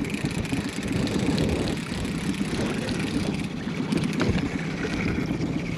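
Boat motor running steadily at trolling speed, a low, even rumble.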